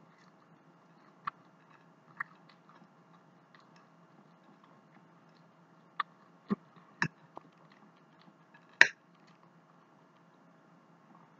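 A person chewing food close to the microphone, with a handful of sharp clicks from a metal fork against a plate. The loudest click comes about nine seconds in.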